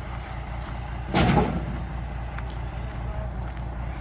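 Truck engine running with a steady low rumble, with a short, loud thump about a second in.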